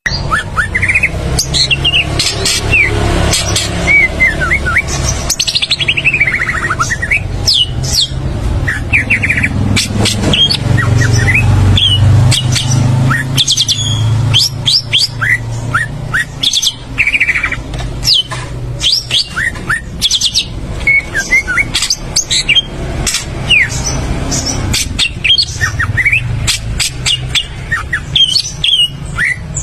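A songbird singing a fast, varied song of short chirps and quick sweeping whistles, with a long falling run about five seconds in, over a steady low rumble.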